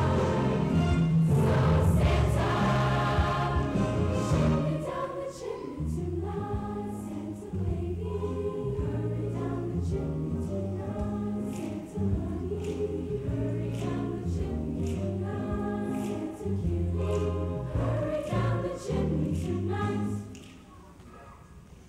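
Junior high school choir singing, loudest in the first few seconds, until the sound drops away sharply about twenty seconds in.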